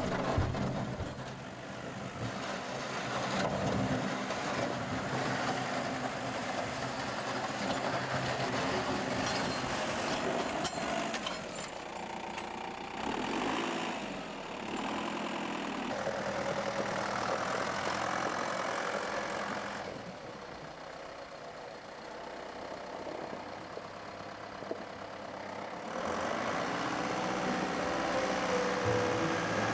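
A motor vehicle's engine running steadily, dropping quieter for a few seconds about two-thirds of the way through before picking up again.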